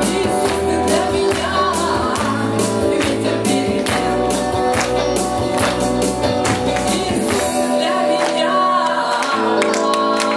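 A live band playing a worship song: strummed guitar over a steady percussion beat, with singing. The low bass drops out about three-quarters of the way through.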